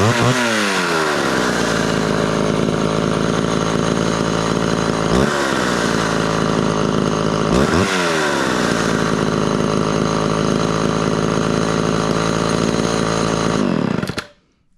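Homelite XL12 two-stroke chainsaw engine running at idle, its revs falling at the start, with two short blips of the throttle about five and seven and a half seconds in, then shut off near the end.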